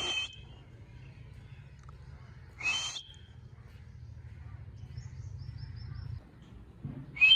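Ring-necked parakeet giving short, harsh screeching calls, three of them: one at the start, one near three seconds in, and one at the end. A low steady hum runs underneath and stops about six seconds in.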